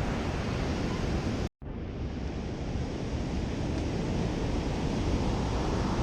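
Surf washing onto the beach after a storm, with wind rumbling on the microphone: a steady, heavy rush of noise. About a second and a half in, the sound cuts out for a split second.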